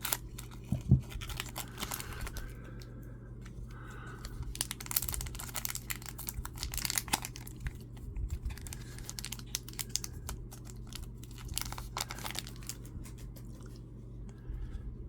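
Crinkling and tearing of a Topps Chrome trading-card pack's foil wrapper being opened and handled, a run of quick crackles over a steady low hum.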